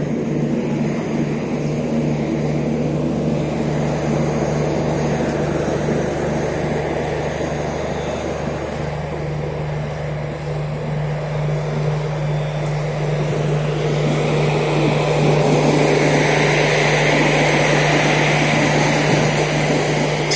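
Indian Railways express trains pulling out: a steady electric-locomotive hum over rumbling wheels on rails. The noise swells during the second half as an electric locomotive and its coaches pass on the adjacent track.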